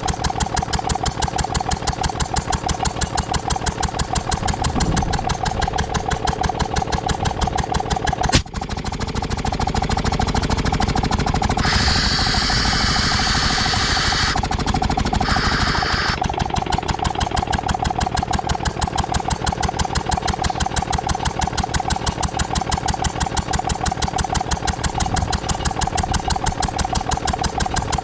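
Ruston & Hornsby 2PS portable petrol-engined air compressor running with a steady, rapid beat. About eight seconds in there is a sharp click, the note turns heavier and a little louder, and a loud hiss of air being let off comes twice, first for a couple of seconds and then briefly.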